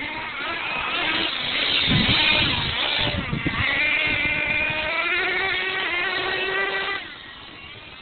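R/C monster truck motor running at speed with a high whine, its pitch swinging up and down with the throttle. It cuts off suddenly about seven seconds in.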